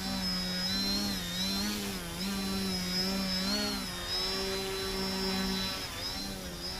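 Scorpion brushless electric motor and APC 10x4.7 propeller of a small RC aerobatic airplane in flight, a steady whine whose pitch dips and rises briefly several times as the throttle is worked.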